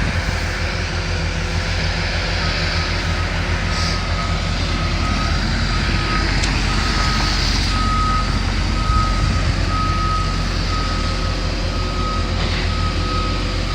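A heavy diesel machine's engine running steadily while its back-up alarm beeps about once a second as it reverses on the demolition site.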